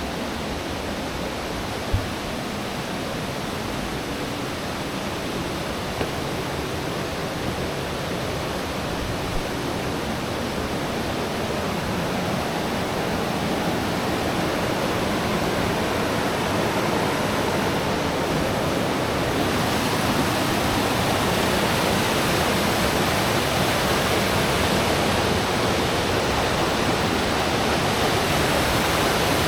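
River water rushing: a steady rush that grows gradually louder, with a faint knock about two seconds in.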